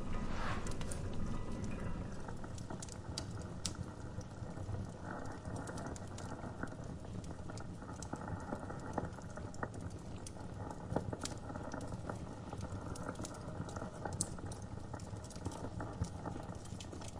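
Wood fire crackling, with irregular sharp pops and clicks over a steady hiss and low rumble, together with the sizzle of fat from the roasting meat.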